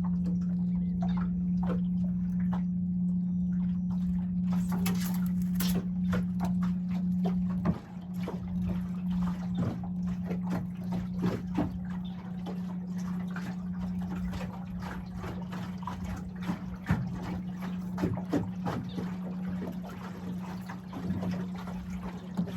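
A steady low hum runs throughout, dropping out for a moment about eight seconds in, with many short clicks and knocks over it.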